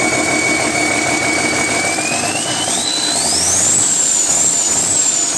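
Cummins 6CTA turbocharged six-cylinder diesel engine running, then revved up about two seconds in. Its turbocharger whine climbs steeply in pitch and holds high as the engine speeds up.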